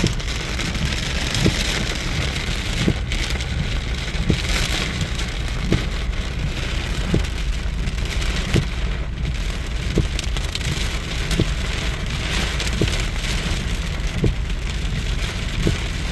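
Heavy rain falling on a car while it is driven, with a steady low rumble of the car underneath and a short knock about every second and a half.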